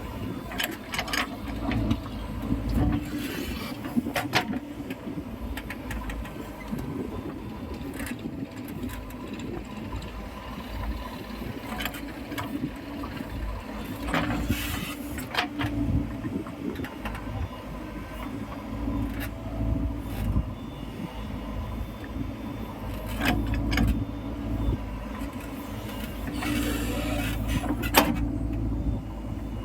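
Heavy diesel machinery running: a steady engine drone with sharp knocks and clanks every few seconds, a few of them close together about 27 to 28 seconds in.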